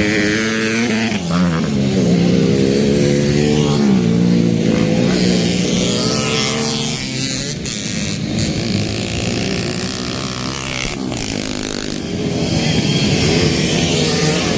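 Motocross bike engines revving up and down on a race track, the pitch rising and falling repeatedly. The sound eases off for a few seconds in the middle and gets loud again near the end.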